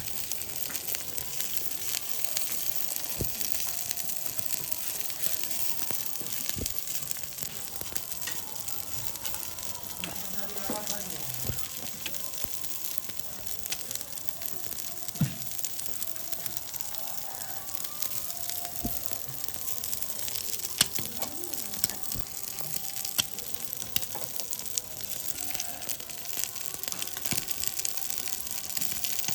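Duck eggs frying in oil on a hot griddle, a steady sizzle, with occasional sharp taps scattered through it.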